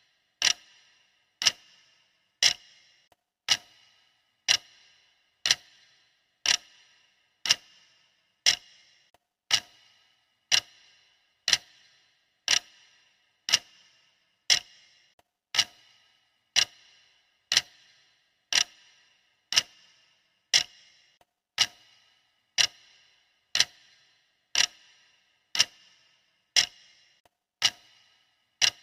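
Steady clock-style ticking of a countdown timer: one sharp tick each second, each with a brief ringing tail.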